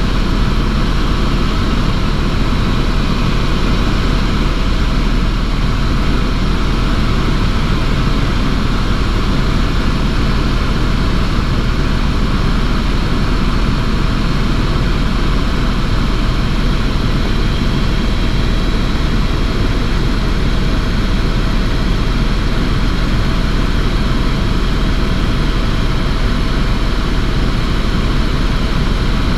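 Helicopter engine and rotor noise, steady and loud, with no change in pitch or level.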